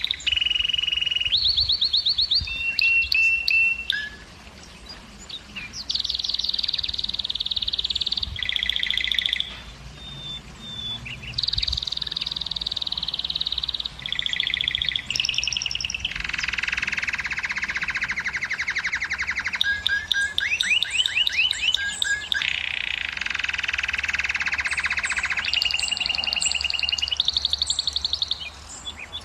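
Domestic canary singing a long song made of rapid trills: each phrase repeats one high note quickly for a second or a few, then switches to another, with some broader, lower rolling trills in the second half.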